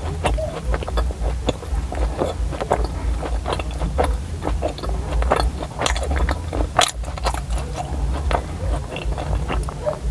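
Close-miked chewing and biting of a soft flour-ball dessert coated in sesame with a coconut filling: a continual run of small wet mouth clicks over a steady low rumble.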